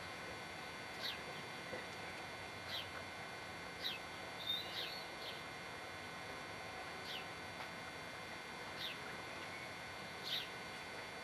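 A garden bird calling, a short high falling note repeated every second or two, over a steady outdoor hiss.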